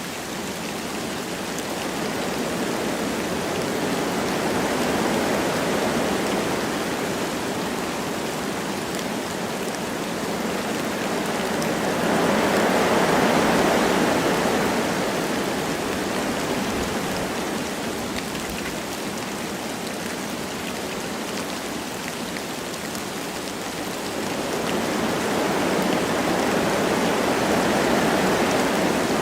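Wind blowing through forest trees with light rain falling: a steady rushing hiss that swells and eases in slow gusts, loudest about a third of the way in and again near the end.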